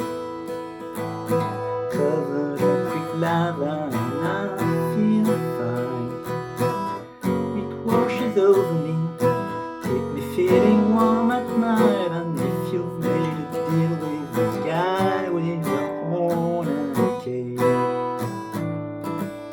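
Instrumental break of a rock song: strummed acoustic guitar chords under a lead melody with bending, sliding notes.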